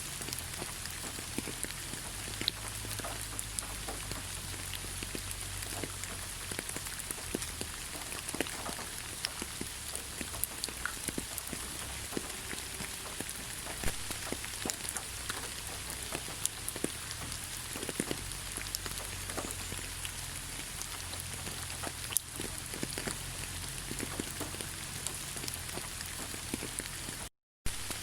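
Steady rain falling in a forest, an even hiss with many separate drops hitting close by. The sound cuts out completely for a fraction of a second near the end.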